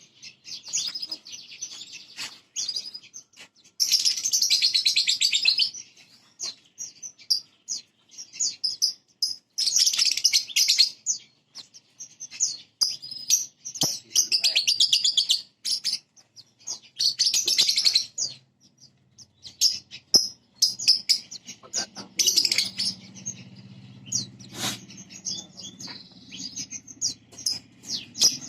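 A prenjak (prinia) sings loud bursts of rapid, high chattering trills, each a second or two long, repeated every few seconds. A faint low hum sets in about three-quarters of the way through.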